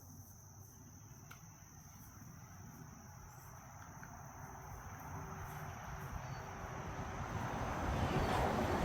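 Insects droning steadily at one high pitch, with a broad rushing noise building up and getting louder over the last few seconds.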